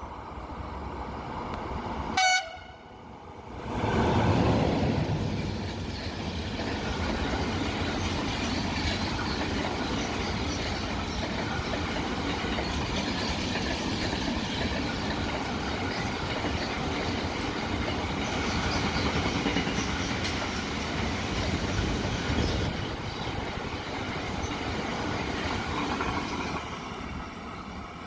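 A train horn gives one short blast, then a train passes on the rails, a loud, steady rumble lasting over twenty seconds that drops away near the end.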